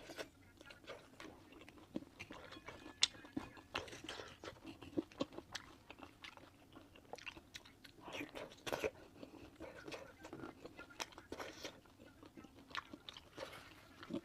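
A person eating close to the microphone: bites and chewing heard as many short, irregular clicks and crunches.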